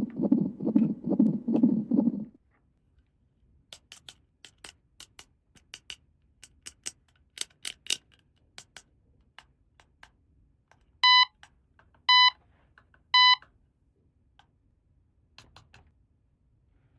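About two seconds of rhythmic rubbing or scraping, then a run of light, sharp clicks and taps as small plastic toy pieces are handled. After that come three identical electronic beeps, about a second apart.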